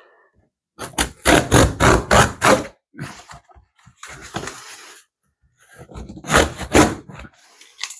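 Cardboard shipping box being cut open with a dull utility knife: a quick run of rough scraping strokes about a second in, softer scratching after it, then another run of strokes around six seconds in.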